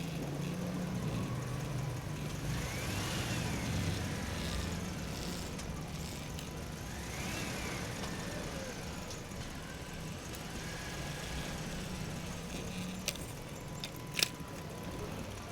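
A motor running with a steady low hum, rising and falling in pitch three times, then two sharp clicks near the end.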